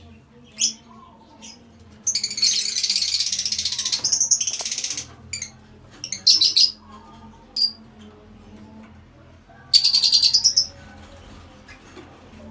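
Lovebirds calling in shrill, rapid chattering bursts: one long burst of about three seconds, a few short ones, then another of about a second near the end.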